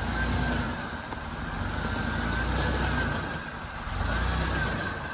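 4x4 engine running at low revs as the truck crawls slowly over a rocky trail, rising and easing in a few gentle throttle swells, with a thin high whine running alongside.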